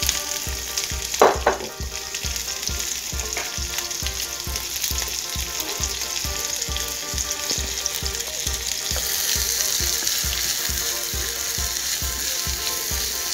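Diced onion frying in hot butter and rendered beef fat in a pan, with a steady sizzle that grows stronger about nine seconds in. Two sharp knocks a little over a second in.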